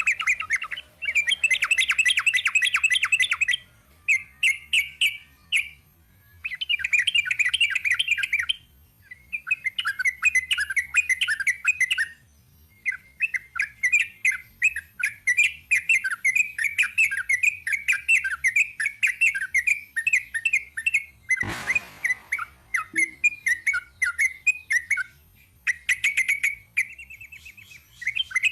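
Yellow-vented bulbul (trucuk) singing long runs of fast, chattering trilled phrases, with short pauses between them. A brief knock sounds about three-quarters of the way through.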